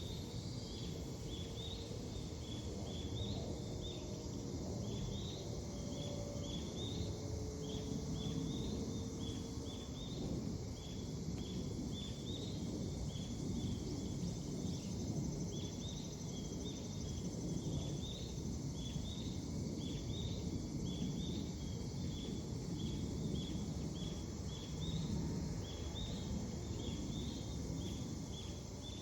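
A bird chirping over and over in short, evenly spaced high notes, about two a second, over a steady low background rumble.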